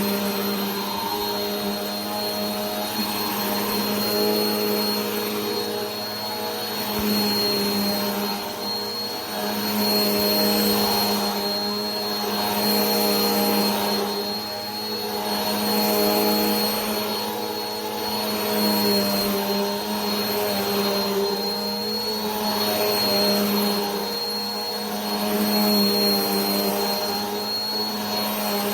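Vacuum cleaner motor running continuously with a steady hum and a thin high whine over a rushing airflow noise. The level swells and eases gently about every two and a half seconds.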